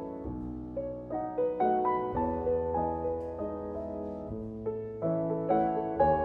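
Solo acoustic piano playing a slow, gentle piece: single melody notes over held bass notes and soft chords, each struck and left to ring.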